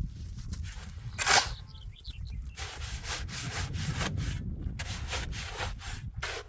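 A hand tool scraping in repeated short strokes, with one louder scrape about a second in.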